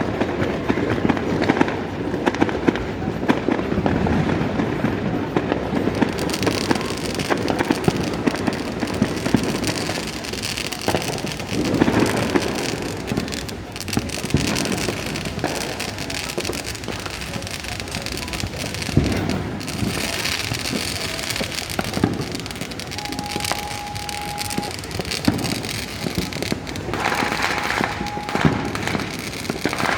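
Fireworks going off: a dense, continuous run of crackles and pops, busiest in the first half. A brief steady tone sounds twice near the end.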